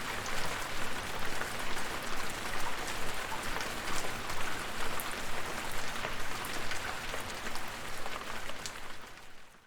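Steady rain falling, a dense hiss of many small drop patters, fading out near the end.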